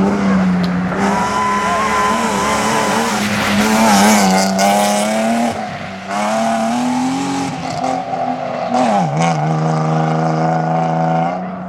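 Rally car engine running hard at high revs, its pitch rising and falling with throttle and gear changes, with a dip about six seconds in and a quick drop in pitch about nine seconds in.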